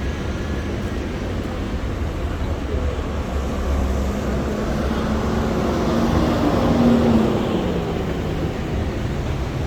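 City street traffic: a steady rumble of vehicles, with one motor vehicle's engine passing close, growing louder to a peak about seven seconds in and then fading.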